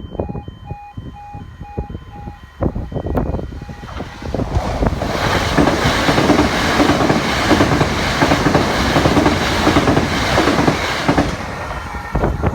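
A train passes over a level crossing with wheel and rail clatter, building up about four seconds in, loudest through the middle, and easing off about eleven seconds in. The crossing's E2S alarm sounds in steady pulses at the start and again near the end.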